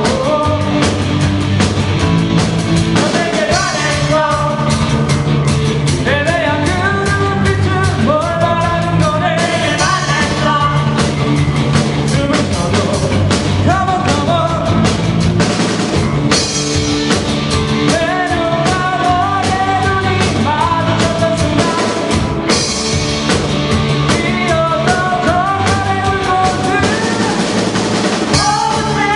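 Amateur rock band playing live: a lead singer over drum kit, guitar and bass in an up-tempo rock song.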